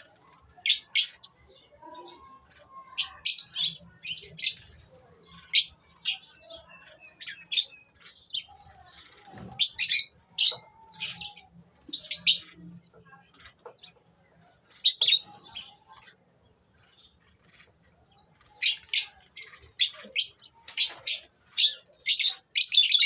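Lovebirds chirping: short, high-pitched calls in quick clusters, broken by pauses, with a quiet spell of a few seconds past the middle and a dense run of calls near the end.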